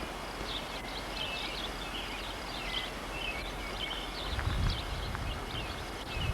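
Small birds chirping again and again over a steady outdoor hiss, with a brief low rumble about four seconds in.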